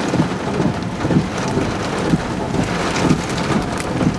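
Heavy rain pelting a vehicle in a tornadic thunderstorm, with wind gusting in irregular swells.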